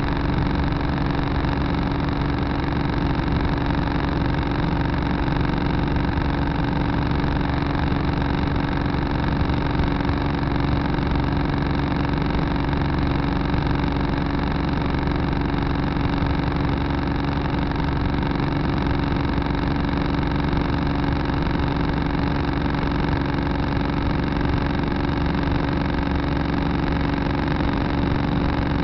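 Tractor engine running at a steady, unchanging speed, heard from the cab.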